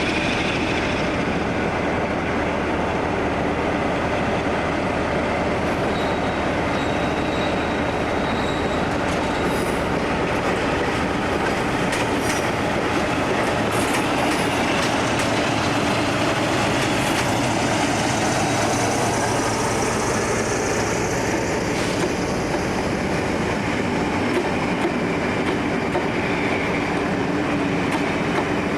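A train running on the rails: a steady, unbroken noise of wheels on track for the whole stretch, with a faint high squeal about six seconds in.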